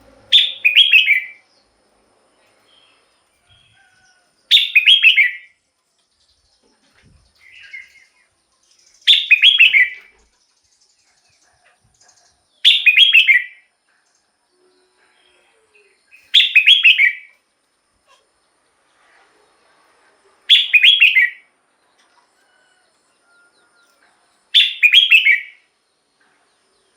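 Red-whiskered bulbul singing: seven short, bright song phrases, each about a second long, repeated about every four seconds with pauses in between.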